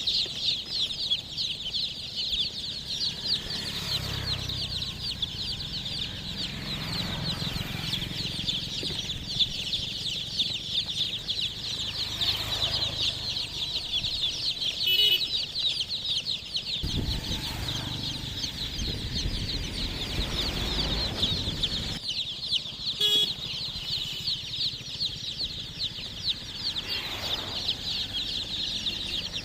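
A large flock of young chicks peeping all at once: a dense, continuous chorus of rapid, short, high falling chirps overlapping without pause. Low rumbling comes and goes underneath.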